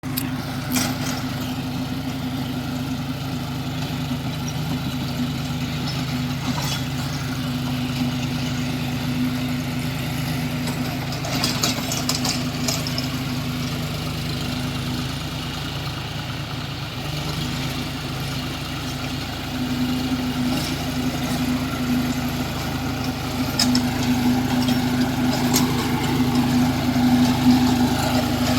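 John Deere tractor's diesel engine running steadily, getting somewhat louder in the last several seconds, with a few short clicks and rattles.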